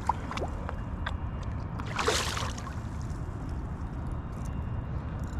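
Water sloshing around a kayak, with a short splash about two seconds in, over a low steady rumble.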